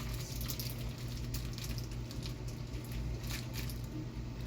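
Raw chicken tenderloins being handled: irregular soft wet squishes and crackles, over a steady low hum.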